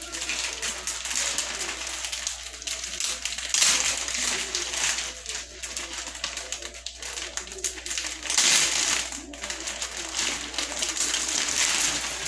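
Plastic packaging crinkling and rustling as baby clothes are handled and unwrapped, in irregular bursts that are loudest about four seconds in and again around eight to nine seconds.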